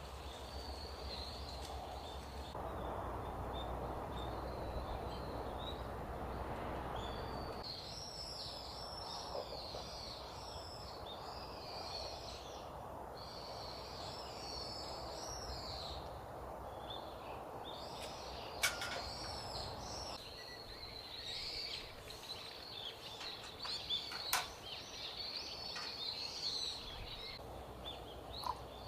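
Small birds chirping and twittering over a steady outdoor background hiss, with a few sharp clicks in the second half.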